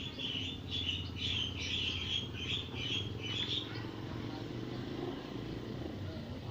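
Birds chirping: a quick run of short, high chirps for the first three and a half seconds, then fainter, over a steady low hum.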